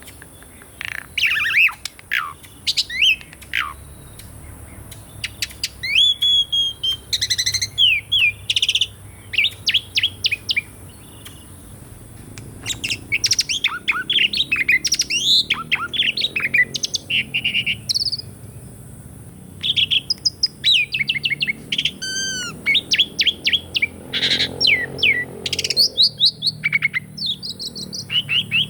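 Asian pied starling (jalak suren) singing: a varied run of loud whistles, rising and falling glides and quick chattering notes, delivered in phrases with short pauses.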